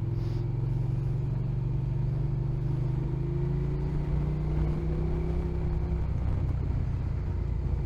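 Motorcycle engine running at a steady cruise, a constant low drone that rises slightly in pitch about halfway through.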